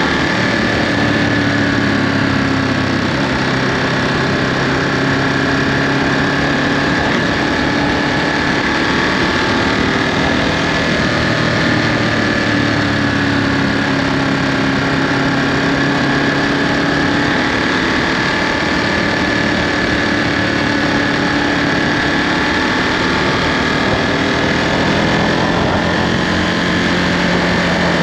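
Ducati Monster 937's Testastretta 11° L-twin engine running through its stock Euro 5 exhaust under way, its pitch drifting gently up and down at a fairly steady speed. Beneath it is a steady rush of wind and road noise.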